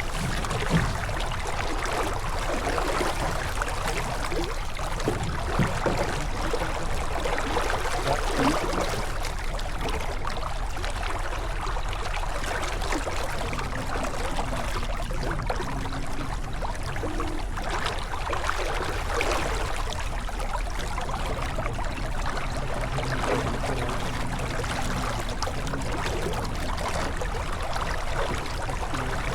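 Water rushing and splashing steadily along the hull of a J24 sailboat under sail.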